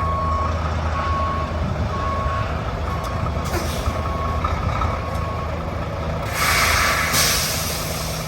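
Semi truck reversing, its backup alarm beeping about once a second over the steady diesel engine. The beeping stops about two thirds of the way in, and a loud burst of air-brake hiss follows.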